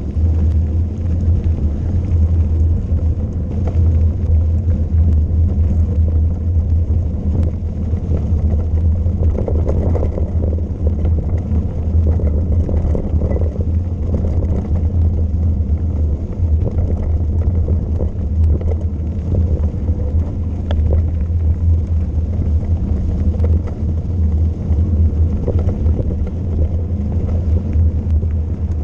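Wind buffeting the camera's microphone: a steady, heavy, fluttering low rumble.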